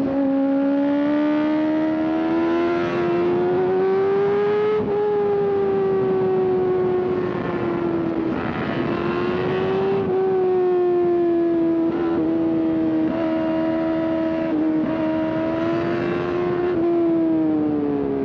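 Sport motorcycle engine held at high revs while riding, its note rising gently and dipping a few times, then falling off at the very end as the throttle closes.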